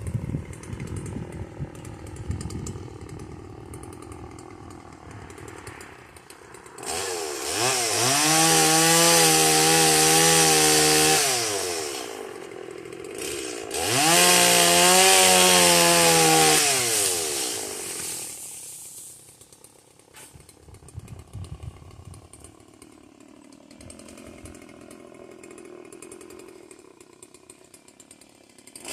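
Stihl chainsaw running at low speed, then revved up to full throttle twice, each burst lasting about four seconds with the engine pitch rising and holding high before dropping back to idle.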